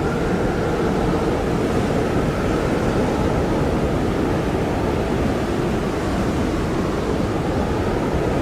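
Blizzard wind blowing steadily: a dense, low rushing noise with a faint whistle that wavers slightly in pitch.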